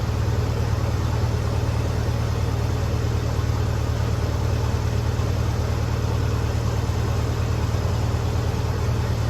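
Lincoln SA-200 engine-driven welder's engine running at a steady speed, a constant low hum without change.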